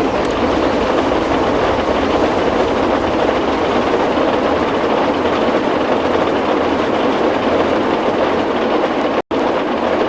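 Train running: a steady, even rush of noise, broken by a split-second dropout to silence about nine seconds in.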